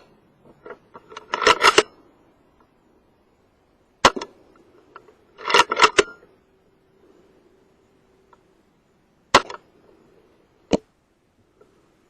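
Theoben Rapid 7 pre-charged pneumatic air rifle being fired: two sharp shots about five seconds apart. Each shot is preceded by a quick clatter of clicks as the bolt is cycled to load a pellet, and a further sharp click comes near the end.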